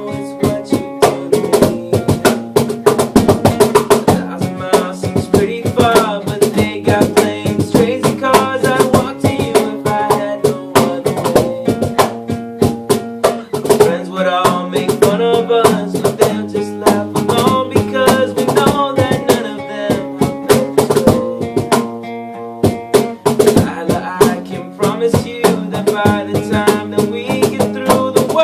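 Band playing an instrumental passage without vocals: plucked or strummed guitar over a steady drum beat.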